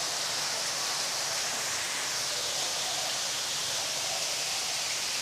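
Steady hiss of running water, even throughout, with no distinct events.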